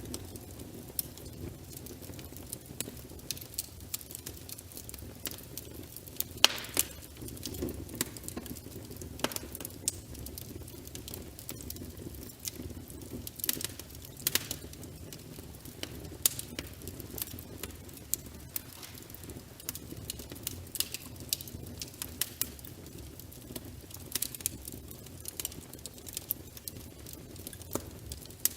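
Wood fire in a fireplace crackling, with irregular sharp pops and snaps over a steady low rumble of burning; one louder pop comes about six and a half seconds in.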